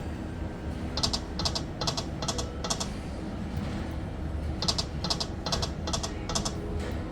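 Poker machine reels stopping one after another, each with a short electronic tick, in two runs of about six ticks a few seconds apart, over the low hum of the venue.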